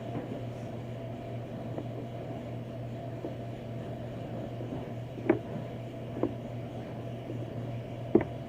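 A steady low hum, with three short clicks as pieces are handled while building.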